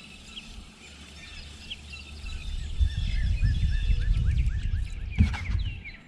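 Birds chirping with short, repeated notes over a low rumbling noise that grows louder partway through; a couple of sharp knocks near the end.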